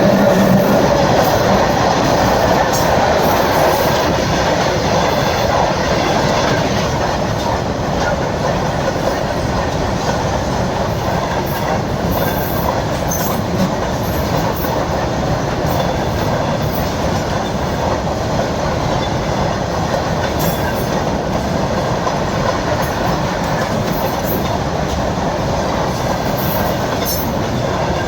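Train running along the track: a loud, steady rolling noise of the wheels on the rails, with brief high-pitched squeaks now and then.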